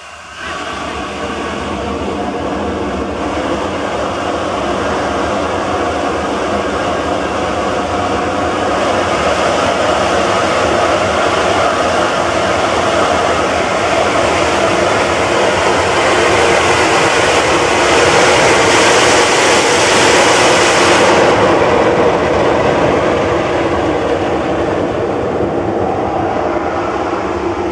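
A train running past, growing steadily louder to a peak about twenty seconds in and then fading. A high hiss above it stops suddenly at the peak.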